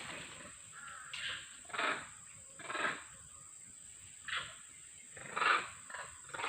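Five short animal calls at irregular intervals, each under half a second, the loudest about five and a half seconds in.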